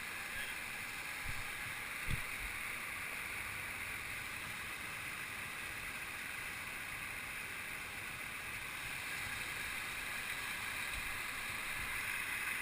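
Steady rush of a waterfall and its stream of falling, running water, with a faint knock about two seconds in.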